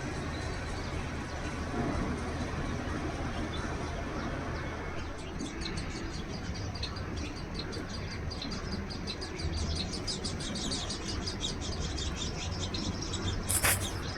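Small birds chirping in rapid, many-voiced short notes that start a third of the way in and grow denser, over a steady low background rumble. A short, sharp burst of noise comes just before the end.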